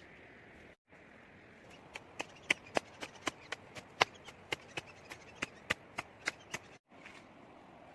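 Hand tool chopping wood: a quick run of sharp strikes, about four a second, beginning about two seconds in and lasting some four and a half seconds.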